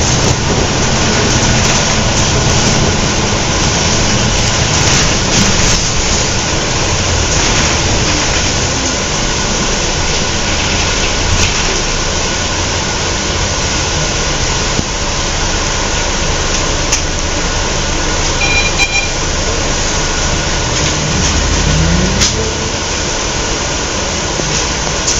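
Scania L113CRL bus's rear-mounted diesel engine running under way, amid heavy, steady road and body noise. Its pitch rises briefly a few seconds before the end as it pulls harder.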